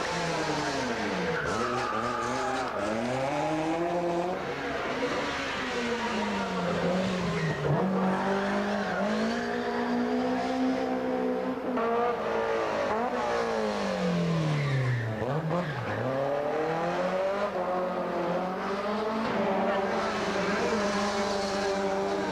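Rally car engines revving hard, their pitch climbing and then dropping sharply again and again as the drivers shift gear and lift off, with some tyre squeal from the cars sliding.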